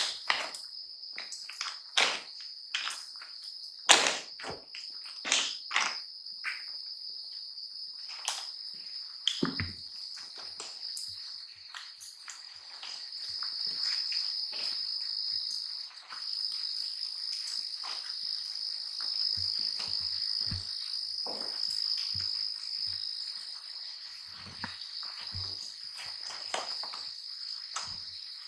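Steady high-pitched chorus of night insects such as crickets, swelling louder in the middle. Scattered sharp clicks and knocks sound over it, most of them in the first third.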